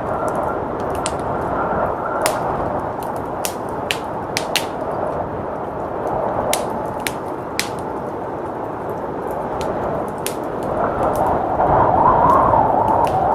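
Wood fire crackling with sharp, irregular pops over a steady rush of blizzard wind, which swells in a gust near the end.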